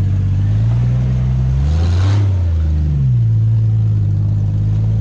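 A vehicle engine running loud under changing throttle. It rises in pitch about two seconds in and falls back about a second later.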